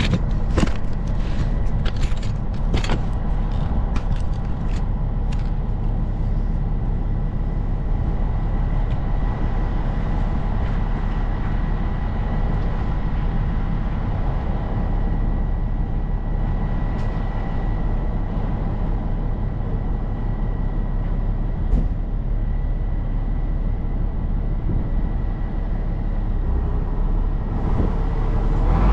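Diesel engine of heavy construction equipment running at a steady speed, with a thin steady whine over it. A run of sharp metallic clanks comes in the first several seconds.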